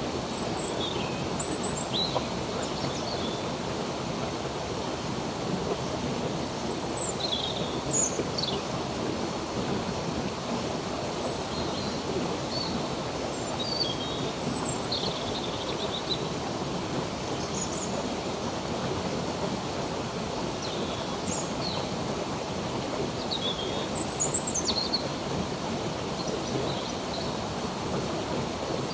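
Running water in a stream making a steady rushing sound, with small birds chirping in short, scattered calls over it.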